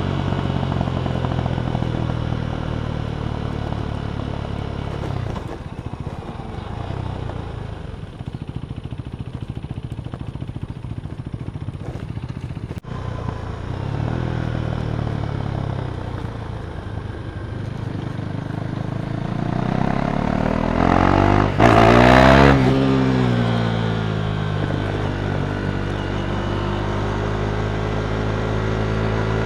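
Single-cylinder engine of a KTM Duke 390 with an Akrapovic exhaust running. The note fades for a while, then rises in pitch and loudness to a loud peak about three-quarters of the way through and drops back to a steady run.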